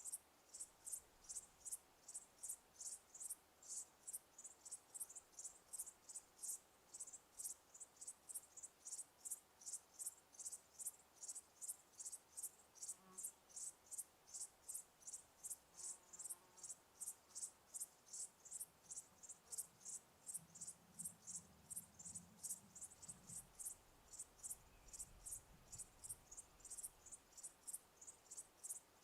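Cricket chirping steadily, short high chirps in an even rhythm of about three a second.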